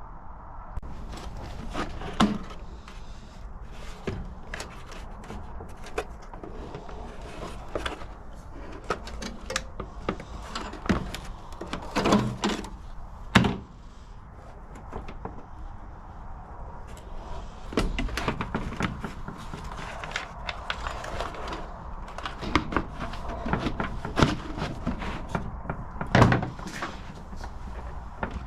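Hands-on handling of parts and tools: scattered knocks, clicks and rubbing, with a few sharper knocks, the loudest about thirteen seconds in.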